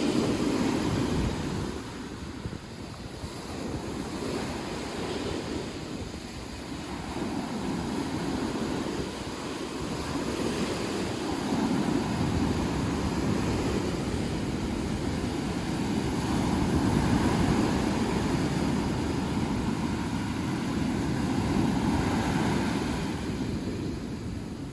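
Sea waves breaking and washing up on a sandy beach, swelling and falling every few seconds, with wind on the microphone.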